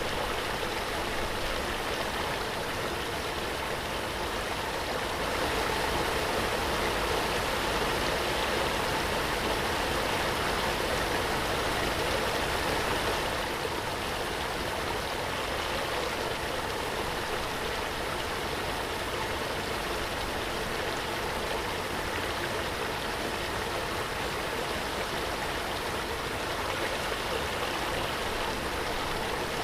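Waterfall: a steady, continuous rush of falling water, swelling a little between about five and thirteen seconds in.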